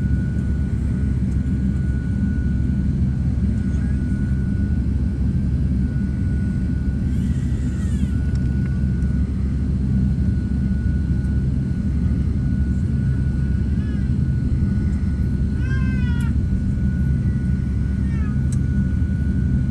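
Steady low rumble of jet aircraft engines with a constant high whine. A few short high cries, each rising then falling, come about 8 seconds in and twice more near the end.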